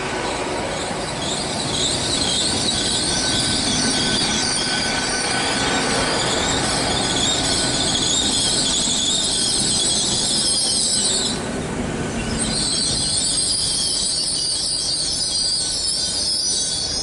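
Wheels of a Great Western Railway Class 800 train squealing as it moves slowly through the platform: a steady, high-pitched screech over the train's rumble, breaking off briefly about eleven seconds in before resuming.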